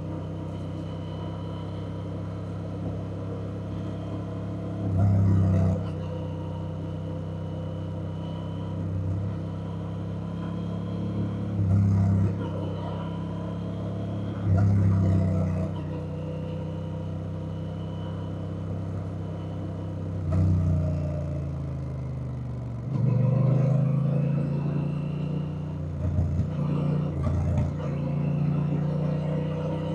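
Honda Rebel 1100's parallel-twin engine running while riding, with several brief louder surges of throttle. About 23 seconds in, the pitch drops and then climbs again as the bike slows and accelerates.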